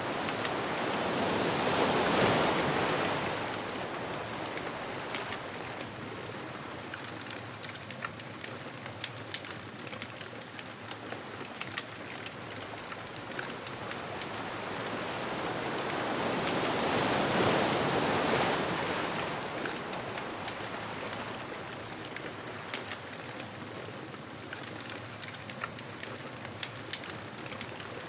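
Ocean waves breaking on a beach twice, about fifteen seconds apart, each swelling up and washing out over a few seconds. Steady crackling and popping of a wood bonfire goes on underneath.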